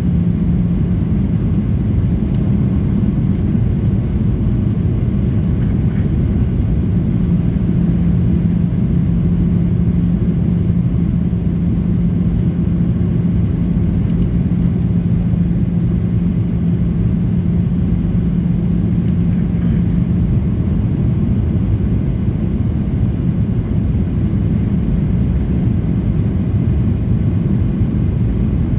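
Steady low rumble of a Boeing 737-800 in flight, from its CFM56 engines and the airflow, heard inside the cabin. A steady hum runs over the rumble and fades out about two-thirds of the way through.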